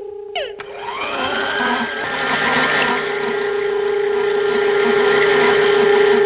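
Electronic cartoon sound effect: a few quick falling chirps, then a rising sweep about a second in that settles into a steady whirring, rushing noise over a constant hum.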